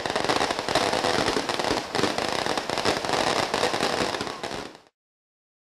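Fireworks going off: a dense run of rapid crackling pops and bangs that cuts off suddenly near the end.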